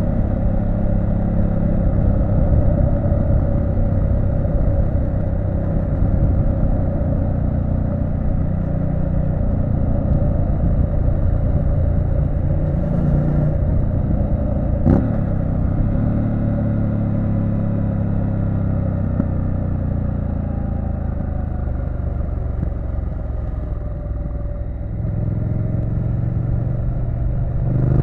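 Triumph Street Scrambler 900's parallel-twin engine running steadily under way, with one sharp click about halfway through.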